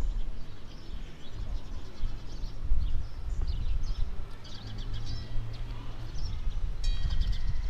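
Small birds chirping over a steady low rumble, with a brief high ringing tone near the end.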